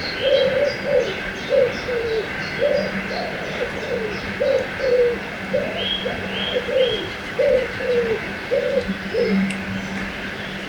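A dove cooing in a long run of short, low notes, about two a second, with small birds chirping higher up. Under it runs the steady rush of a river.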